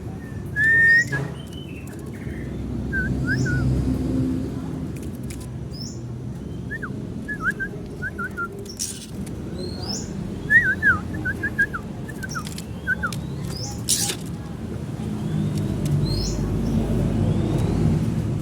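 Small birds chirping: quick short chirps in clusters of two to four, and a thinner high chirp that repeats every couple of seconds. Underneath there is a low rumble, broken by a few sharp clicks.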